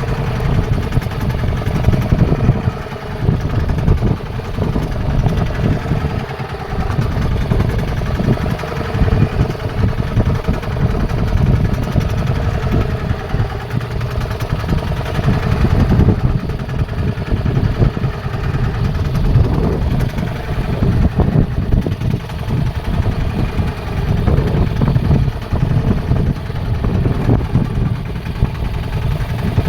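A fishing boat's engine running steadily at sea.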